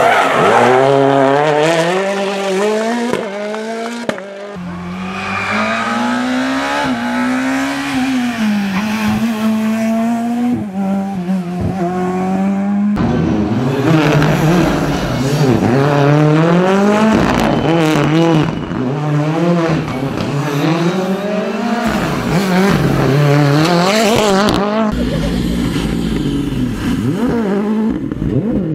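Rally car engines at full attack on a stage, revving hard up and down through the gears with rapid rises and drops in pitch and some tyre squeal. The engine note changes abruptly about halfway through, as a different car takes over.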